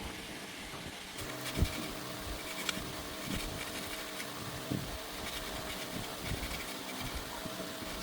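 Scattered light knocks and clicks, irregularly spaced, over a faint steady hum.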